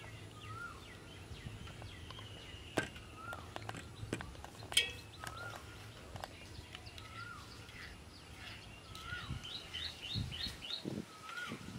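Birds calling, one repeating a short rising-and-falling chirp about once a second, with a quick run of high notes about nine seconds in. A few sharp clicks of a steel spoon against a metal strainer and bowl come between about three and five seconds in.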